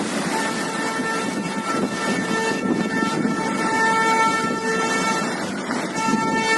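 Wind on the microphone and rough sea on the seafront make a steady rushing noise. A pitched tone with overtones, like a horn, is held on and off through it from about half a second in.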